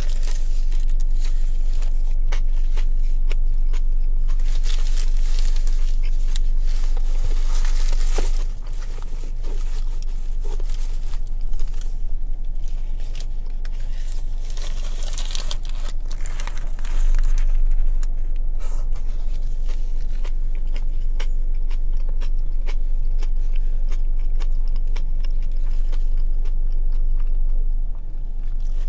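A person chewing and biting into a meatball sub loaded with vegetables, with many small clicks and smacks, over a steady low hum.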